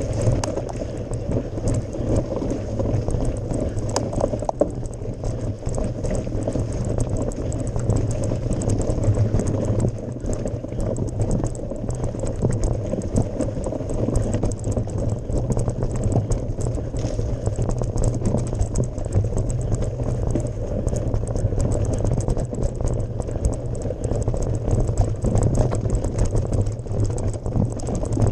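Mountain bike climbing a gravel forest road: tyres crunching and crackling over loose gravel, with a steady low rumble.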